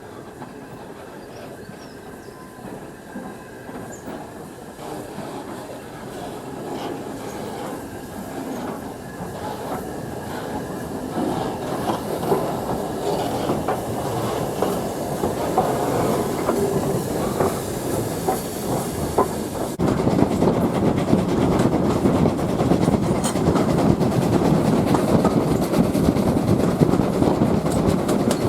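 A train on rails approaching and growing steadily louder, its wheels clattering over the track, with a sudden jump in loudness about two-thirds of the way through.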